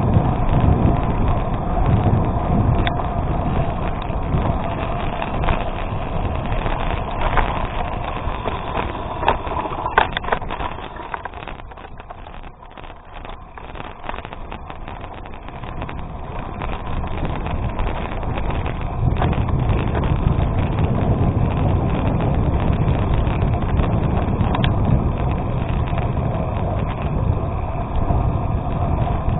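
Wind buffeting the microphone and bike tyres rolling over a gravel road, with scattered clicks and rattles. The sound drops quieter for a few seconds near the middle, then builds back up.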